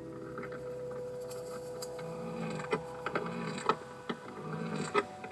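Caterpillar vibration signals made audible through a laser vibrometer: irregular sharp clicks and short scraping strokes over a steady hum.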